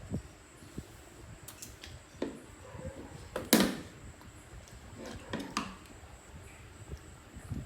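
A few scattered light knocks and clicks of handling, with one sharp, louder knock about three and a half seconds in.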